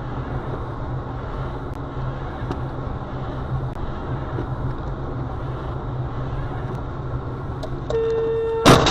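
Steady road and engine noise heard from inside a moving car. Near the end a horn sounds for under a second, then a sudden loud bang.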